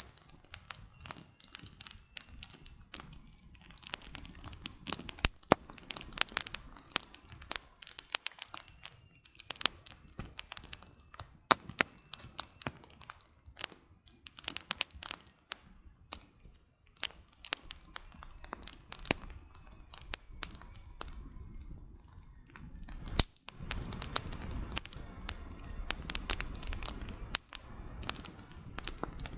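Campfire of burning firewood crackling, with dense, irregular sharp pops and snaps. A low rumble joins for several seconds near the end.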